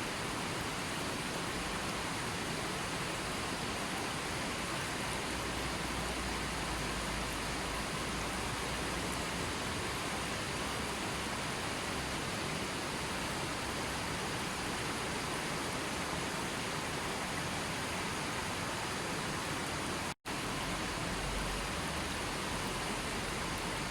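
Steady rushing water, an even hiss with no distinct drops or splashes. It cuts to silence for a split second near the end, then resumes unchanged.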